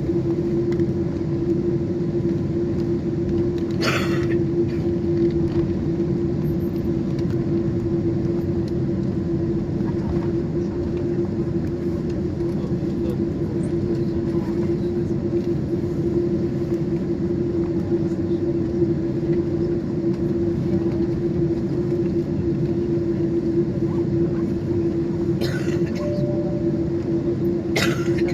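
Boeing 747 cabin noise: a steady engine drone with a constant hum over a low rumble, with a brief click about four seconds in and again near the end.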